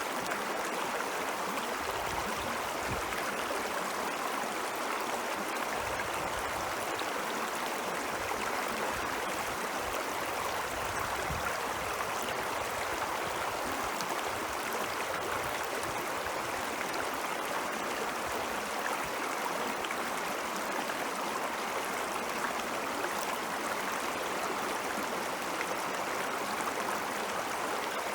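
Steady rushing and babbling of a stream of snowmelt water flowing over rocks, an even, unbroken sound.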